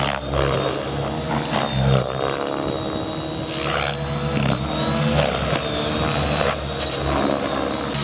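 Radio-controlled 3D helicopter flying, its rotor and motor sound rising and falling in pitch with a steady high whine running through it.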